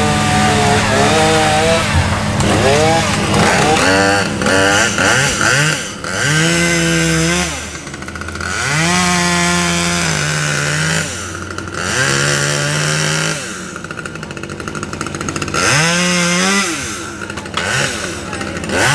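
Chainsaw revving up and down about seven times, its pitch climbing, holding high for a second or two and falling back each time, over a steady lower engine hum.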